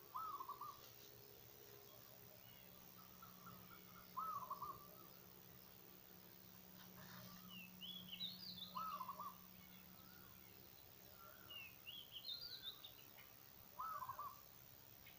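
Birds calling: a short wavering call repeats four times, about every four seconds. Twice, between those calls, a run of higher notes steps upward. A faint steady low hum sits underneath.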